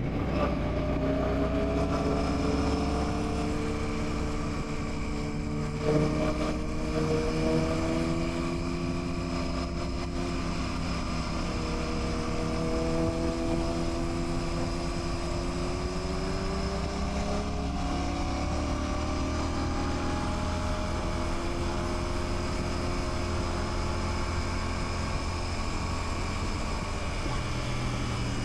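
Royal Enfield Classic 650's parallel-twin engine running at a steady cruise, its pitch drifting gently up and down as the throttle eases and opens, with a low rush of wind underneath.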